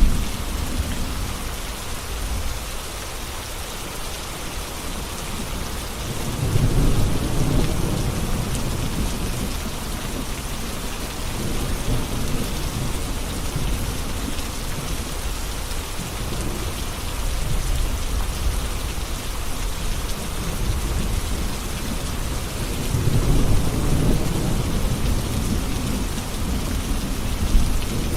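Steady heavy rain hissing, with rolling thunder rumbling low underneath; the thunder swells twice, about a quarter of the way in and again past the three-quarter mark.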